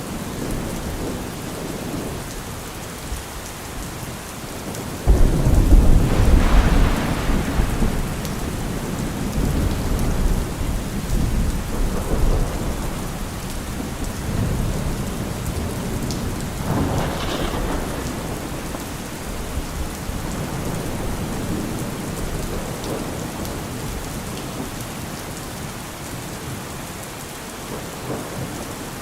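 Heavy rain falling steadily on a car roof, with a sudden loud thunderclap about five seconds in that rumbles on for several seconds, and a second, weaker roll of thunder a few seconds later.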